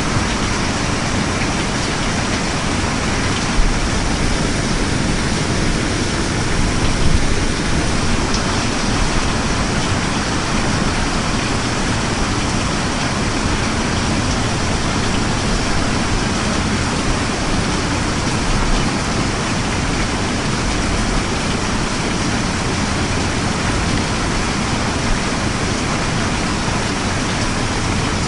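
Steady heavy rain, a dense even hiss, with brief low rumbles about four and seven seconds in.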